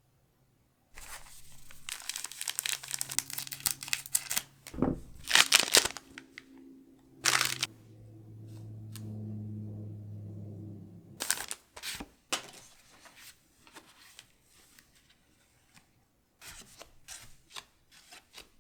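Foil booster pack wrapper crinkling and being torn open by hand, in bursts of crackling with a few sharper tears, the loudest about halfway through.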